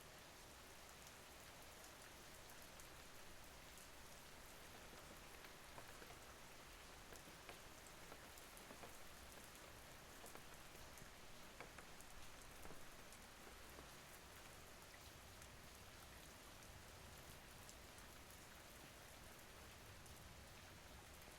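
Faint, steady rain falling, with scattered louder drop ticks in the middle.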